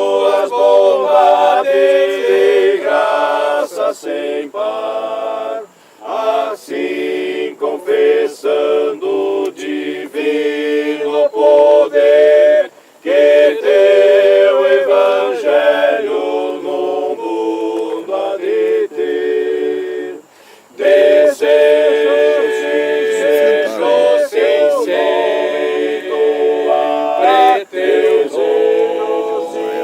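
A group of voices singing together unaccompanied, in phrases with short breaks between them.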